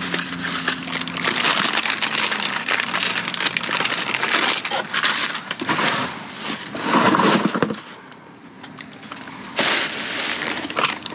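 Rummaging through a dumpster's boxes of medicine and other packaging: dense crackling and crunching of cardboard and plastic being handled, with a short lull shortly before the end.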